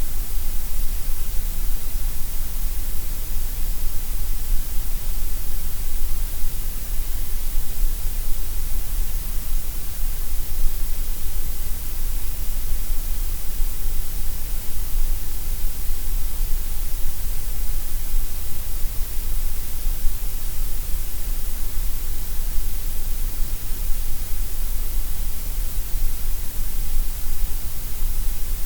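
Computer-generated gray noise: a steady, unchanging hiss, heaviest in the deep low end and the high treble and thinner in the middle.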